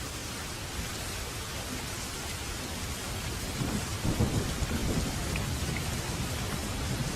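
Steady rain falling, with a roll of thunder rumbling in about halfway through and fading slowly.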